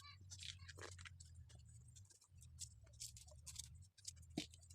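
Near silence: faint scattered ticks and rustles over a low steady hum.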